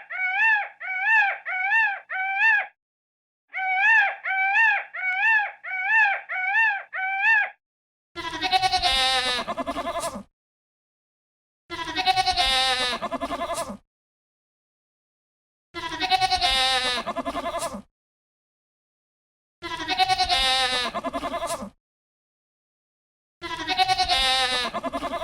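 A rapid series of short, high, pitched calls, about two a second with a short break, then a bleat repeated five times, each about two seconds long and coming about every four seconds, all alike.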